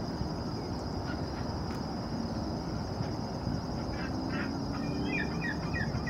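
A steady high insect trill over a low outdoor rumble of wind, and from about four seconds in a bird calling a quick series of short down-slurred notes, about three a second.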